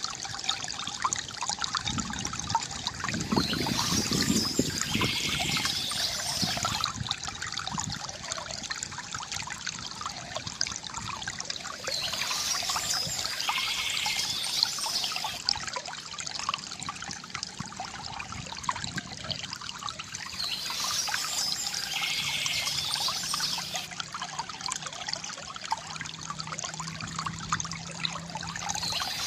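Small stream trickling and splashing steadily, with a bird singing a short phrase that comes back about every nine seconds.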